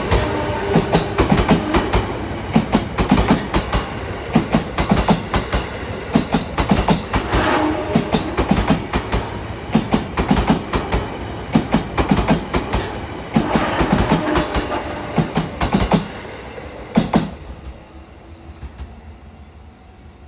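JR E233 series 7000 electric train passing, its wheels clattering over the rail joints in a rapid, uneven rhythm. It is loud for about sixteen seconds, gives one last sharp clack about a second later, then fades away.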